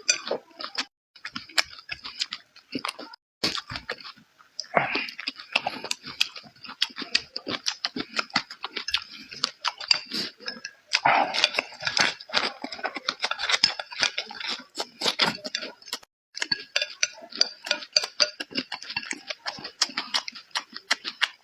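A person chewing and eating food close to the microphone, a dense run of quick mouth clicks and crunches with a few short pauses.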